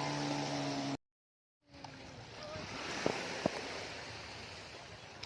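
Sea waves washing ashore with wind on the microphone and a few small clicks. Before it, a steady motor drone lasts about a second and then cuts off into a brief total silence.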